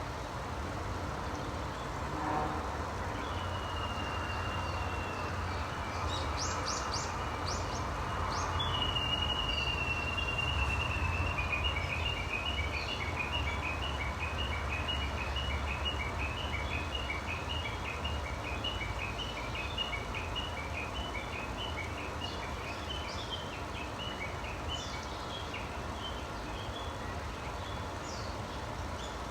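Songbirds singing: a held high whistle, then a long run of rapidly alternating high notes lasting over ten seconds, with a few short calls around it, over a steady low rumble.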